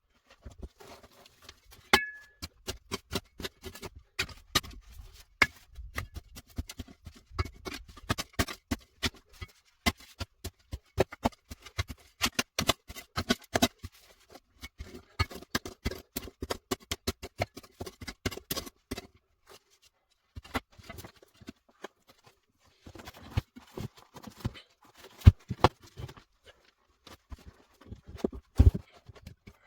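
A dense, irregular run of sharp clicks and knocks, several a second, with a few short pauses and some louder knocks near the end.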